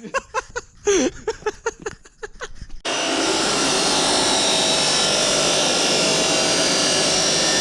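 A metalworking power tool running steadily on exhaust pipe, a loud, even, hissing noise that starts abruptly about three seconds in, after a few short sharp knocks and scrapes.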